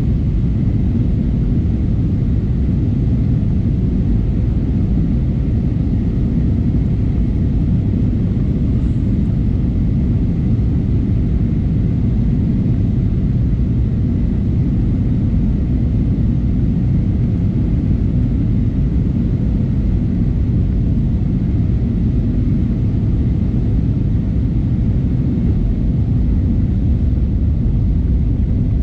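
Steady cabin noise inside an Airbus A320neo, a deep, even rumble of its Pratt & Whitney geared turbofan engines and airflow, with a faint high steady tone over it.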